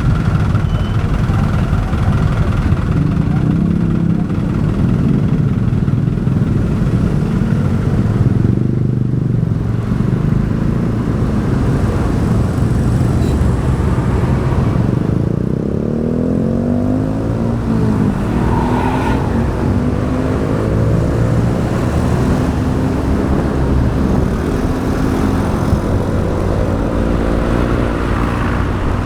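Motorbike engine running on the move, its pitch rising and falling several times as it speeds up and slows, over the steady rumble of road traffic.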